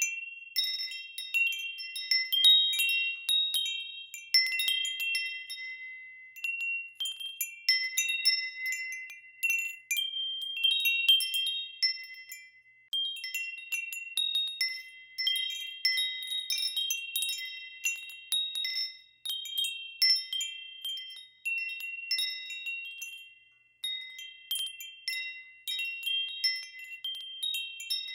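Wind chimes ringing in irregular clusters of high, overlapping tones, with new strikes every second or so and each note ringing on as it fades.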